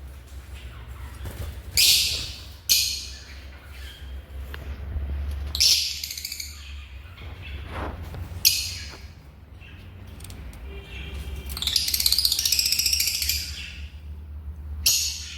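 Lovebirds calling in shrill, high-pitched chirps that come in short bursts a few seconds apart, with a longer run of rapid chattering calls about twelve seconds in. A steady low hum runs underneath.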